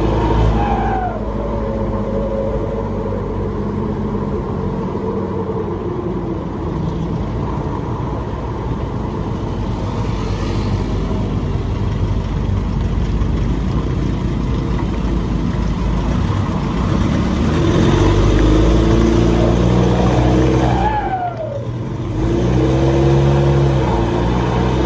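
Nissan Navara's turbocharged engine pulling under load through a muffler-deleted exhaust with a free-flow tip, its note climbing as it accelerates. About three quarters of the way through, the engine sound drops off sharply, with a brief falling whistle, then picks up again.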